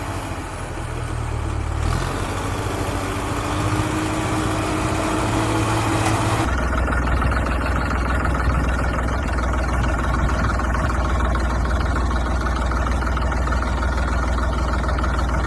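Engine running steadily at idle with a low, even hum. Its tone changes abruptly about two seconds in and again after about six and a half seconds, then it holds steady.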